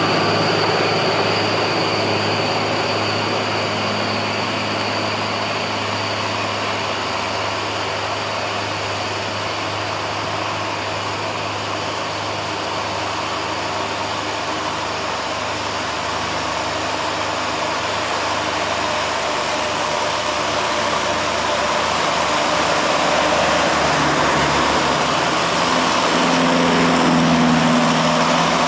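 Heavy Volvo truck's diesel engine running steadily under load while hauling a bulldozer on its trailer, getting louder with a stronger engine note in the last few seconds.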